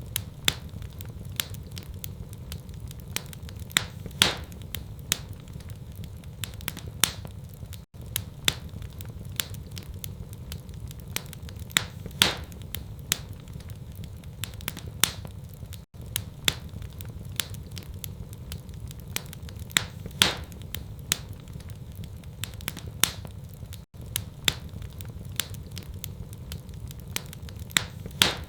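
Wood fire crackling in a fireplace: a steady low rumble under constant small crackles, with a louder pop about every eight seconds. The same pattern repeats every eight seconds as a short loop.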